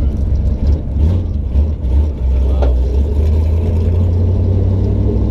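Car engine running with a steady low rumble, with a brief sharp sound a little under three seconds in.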